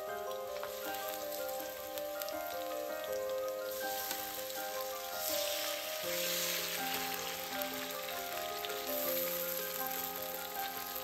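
Julienned ginger sizzling in hot oil in a wok. The sizzle grows louder about five seconds in as marinated chicken strips go into the pan. Background music with held, gently stepping notes plays over it.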